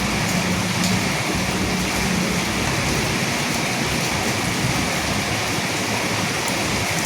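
Steady rain falling, with a few single drops ticking now and then and a faint low rumble that dies away in the first couple of seconds.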